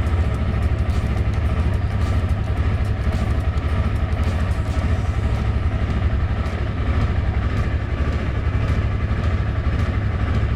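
KTM 250 Adventure's single-cylinder engine running steadily at idle, just after starting, in footage of the bike's cold-start problem.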